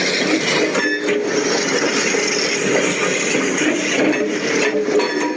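Bulldozer working, its engine running steadily with a dense mechanical clatter.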